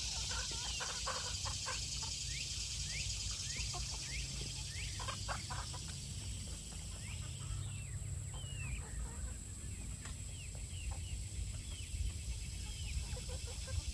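Chickens clucking, with a run of short rising chirps repeated every half second or so and a few brief bursts of clucks near the start and about five seconds in.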